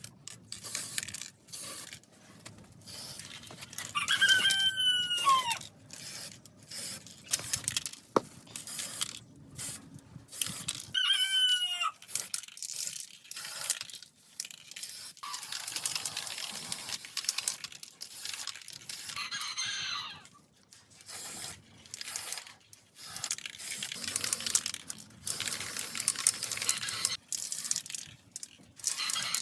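A rooster crows twice, about four and eleven seconds in, over irregular clicking and scraping from hand work on the fan parts.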